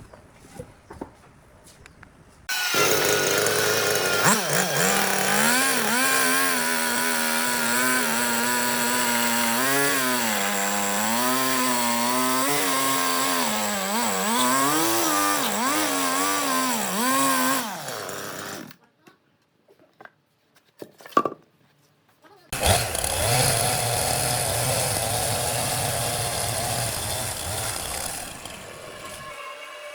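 Chainsaw cutting wood, its engine pitch dipping and recovering again and again as the chain bites into the log. It stops for a few seconds, then a second, rougher cut starts and tails off near the end.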